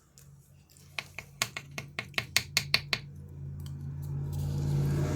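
A quick run of about a dozen sharp clicks or taps over roughly two seconds, followed by a steady low hum that grows louder.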